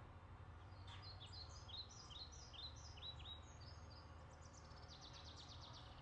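Faint songbird singing over low steady background noise: a run of quick descending chirps, then a fast trill of short notes near the end.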